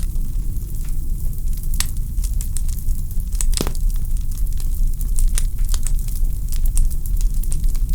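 Wood fire in a fireplace crackling: irregular sharp pops and snaps from the burning logs over a steady low rumble of the flames, with one louder pop about three and a half seconds in.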